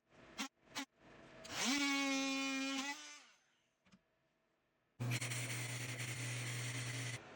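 Power tools in a woodworking shop: a few sharp taps, then a motor spins up, runs steadily for about a second and a half and winds down. After a short pause, another machine with a low hum runs steadily for about two seconds and cuts off suddenly.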